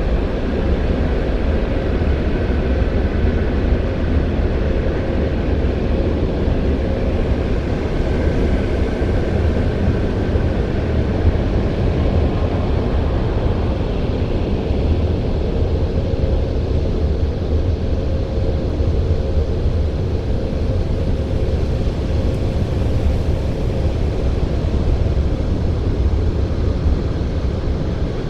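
Christ Auto-Jet C115 automatic car wash running, heard from inside the car: a loud, steady machine noise with a deep rumble and a faint steady hum.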